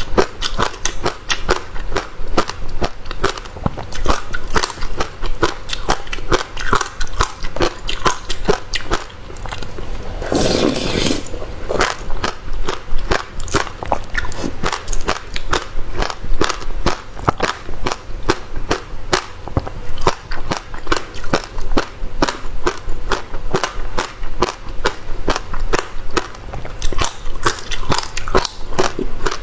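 Close-miked chewing of passion fruit, the crunchy seeds cracking between the teeth in a steady run of sharp clicks, about three a second. About ten seconds in, a longer noisy sound lasting about a second breaks the run.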